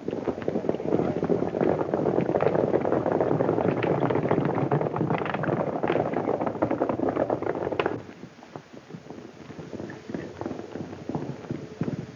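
Hoofbeats of horses galloping, a dense run of irregular clattering. About eight seconds in it drops suddenly to quieter, sparser hoofbeats.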